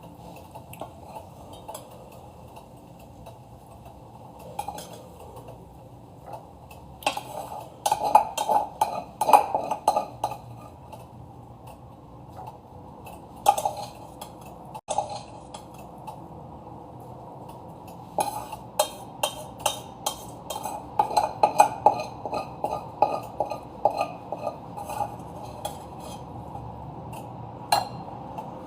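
Metal cutlery clinking and scraping against a bowl or plate while eating dal and rice, in clusters of quick clicks with pauses between.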